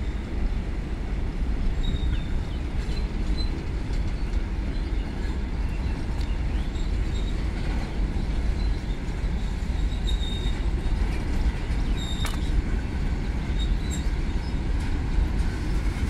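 Empty covered freight wagons rolling past on the track: a steady rumble of steel wheels on the rails, with brief high squeals now and then and a sharp clank about twelve seconds in.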